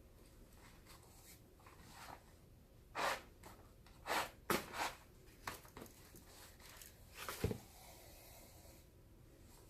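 A string of short scraping, rustling strokes, about eight over four seconds, as a baseball glove is handled and worked on by hand during repair.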